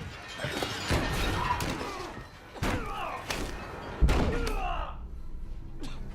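A physical struggle: several heavy thuds and bumps, the loudest about four seconds in, with strained grunts and groans between them.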